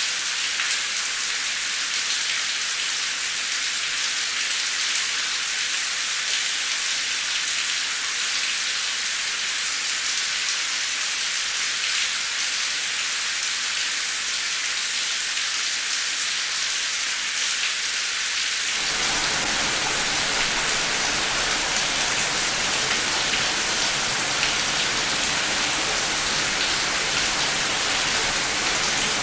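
Heavy rain falling steadily, a dense even hiss. About two-thirds of the way through it abruptly turns fuller and deeper.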